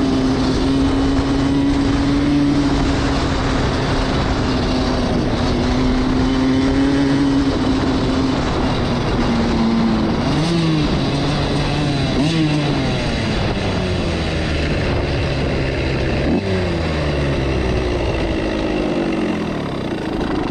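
Suzuki RM85 single-cylinder two-stroke dirt bike engine under way. It holds a steady note for the first nine seconds or so, then revs up sharply three times, about ten, twelve and sixteen seconds in, falling away between. The bike had been bogging, which the rider puts down to the engine loading up with too much fuel from heavy throttle.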